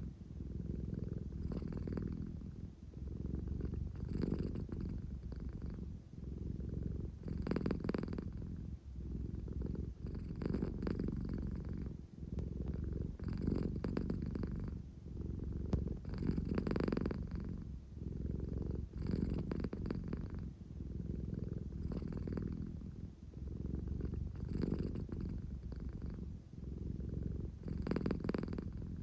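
American Shorthair cat purring steadily, the purr swelling and easing with each breath about every two to three seconds.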